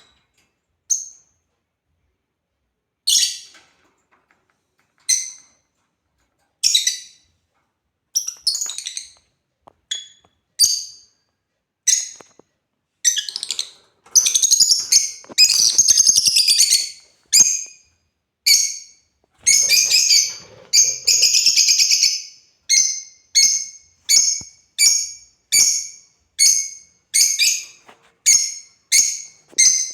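Lovebirds calling with sharp, shrill chirps. At first the chirps come a second or two apart. Two bursts of rapid chattering follow in the middle, and toward the end the calls come regularly at about one and a half a second.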